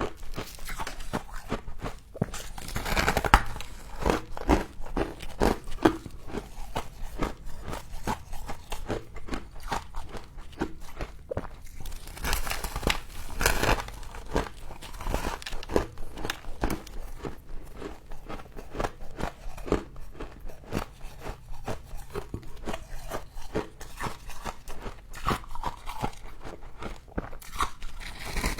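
Close-up biting and chewing of crunchy humidifier frost: a dense, continuous run of crisp crunches, with louder bites about three seconds in and again around twelve to fourteen seconds.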